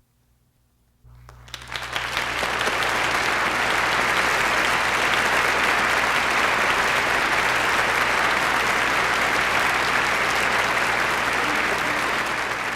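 Concert-hall audience applauding at the end of an orchestral piece, breaking out about a second in and quickly building to steady, full applause.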